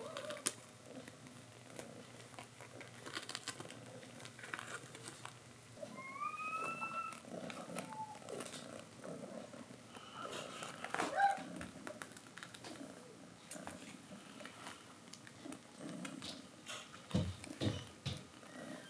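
Cats purring, with a few short mews that rise and fall in pitch and scattered soft clicks.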